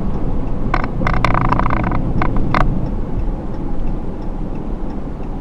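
2013 Ram 3500 heavy-duty pickup driving, a steady low engine and road rumble, with a few sharp clicks or rattles in the first few seconds.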